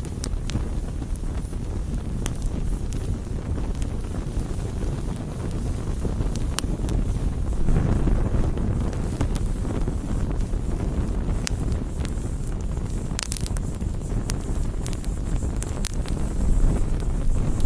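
Wood campfire burning: irregular sharp crackles and pops over a steady low rumble, which swells briefly about halfway through.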